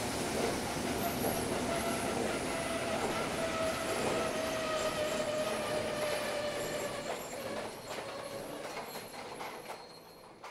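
HO-scale model train running on its track: a steady rolling rumble with thin squealing tones from wheels on rail, fading gradually over the last few seconds before the sound cuts off.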